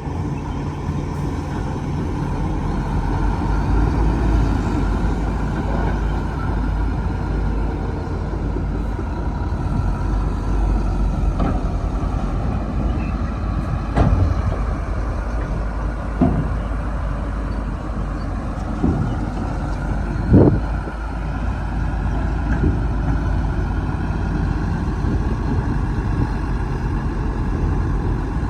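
Heavy diesel engines of a bulldozer and dump trucks running steadily at work, a deep rumble, with four sharp knocks in the middle stretch.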